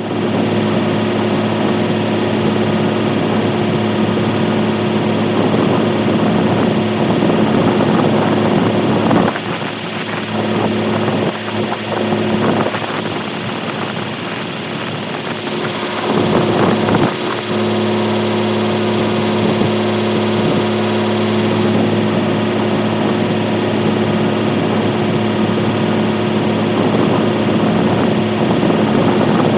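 Heavy diesel engine of a bulldozer running steadily. Its even drone breaks up into rougher, uneven noise for several seconds in the middle, then settles back to the same steady note.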